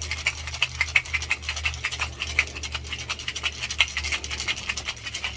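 Ice cubes rattling rapidly inside a cocktail shaker being shaken hard, over a steady low hum.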